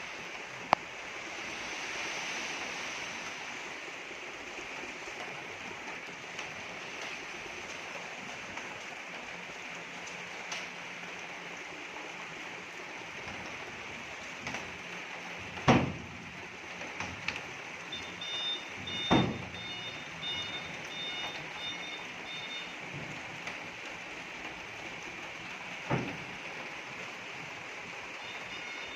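Steady hiss of rain with a few sharp knocks. From about two-thirds of the way in, a dump truck's reversing beeper sounds faintly in a run of quick beeps, stops, and starts again at the very end.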